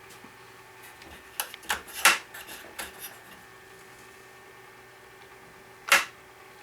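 Hard clicks and knocks from the parts of a handmade wooden toy garbage truck being handled: a quick run of them about a second and a half in, then one sharp click near the end, over a faint steady hum.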